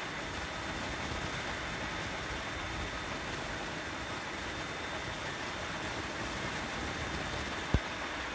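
Steady running noise of a container truck, engine and road noise together with no change in pitch, with a single sharp click near the end.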